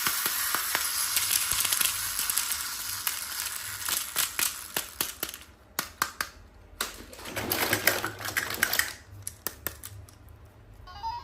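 Rapid clicking and rustling from a toy and its packaging being handled: a dense run of small clicks over a hissy rustle for about five seconds, then scattered clicks with a shorter rustle in between.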